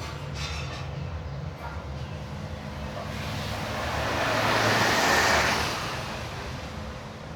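Road traffic: a steady low engine hum, with a rushing noise that swells up and fades away over about three seconds in the middle, as of a vehicle going past.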